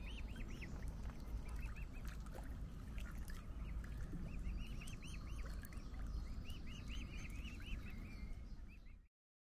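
Birds calling in repeated bursts of short, quick chirps that rise and fall, over a steady low rumble; the sound cuts off about nine seconds in.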